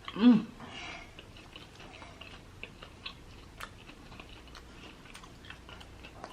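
Close-up chewing of a Korean corn dog with a crunchy potato-studded batter: scattered small crunches and wet mouth clicks. A short, loud hummed voice sound comes right at the start.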